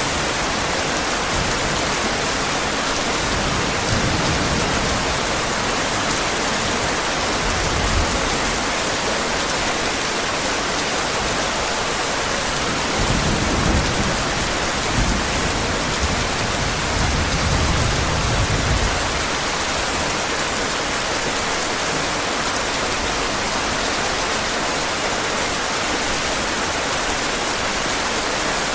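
Steady heavy rain hissing, with low thunder rumbles about four and eight seconds in and a longer rumble of thunder from about thirteen to nineteen seconds in.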